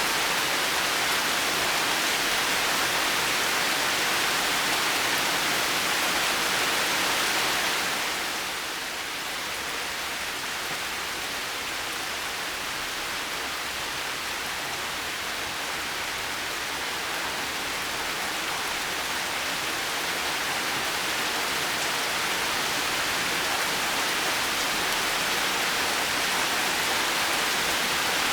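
Heavy rain falling steadily as a dense, even hiss. It eases slightly about eight seconds in, then gradually builds back.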